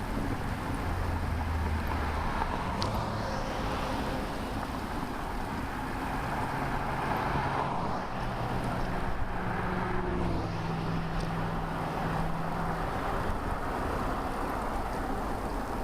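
Motor traffic passing on a busy road: engine hum and tyre noise rising and falling over several seconds, with wind on the microphone of a moving bicycle.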